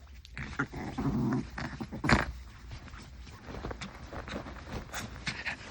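Maltese dog growling in play and scuffling while play-fighting with a person's hand, with a low growl about a second in and a sharp click about two seconds in.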